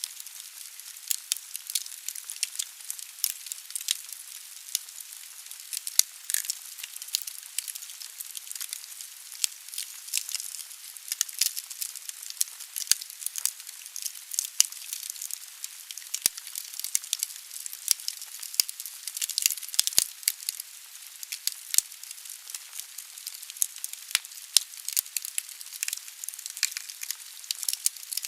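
Logs burning in a fireplace: a steady hiss of fire with dense, irregular crackling and sharp pops throughout.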